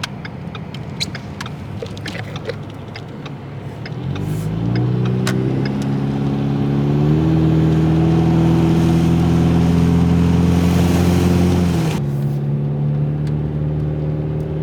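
Ford Mustang EcoBoost engine accelerating: its pitch climbs from about four seconds in, holds steady, then drops at about twelve seconds as the car eases off and keeps cruising. Light scattered ticks come before the engine picks up.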